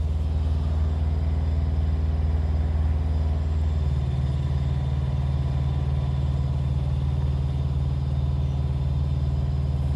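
Truck engine idling steadily, a low even hum whose tone shifts slightly about four seconds in.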